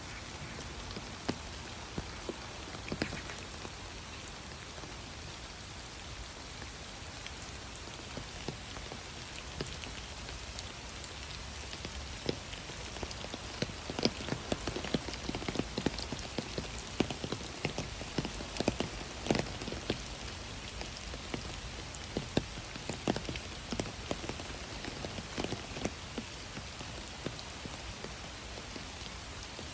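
Steady rain falling, a constant hiss with many separate drops tapping close by. The drops come thicker and louder through the middle stretch.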